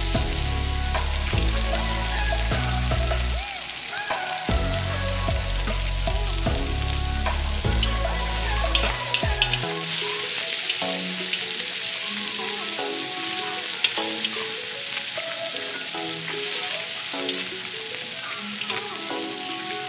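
Butter and minced garlic sizzling in a stainless steel skillet, stirred with a spatula near the end. Background music plays over it, and its bass line drops out about halfway through.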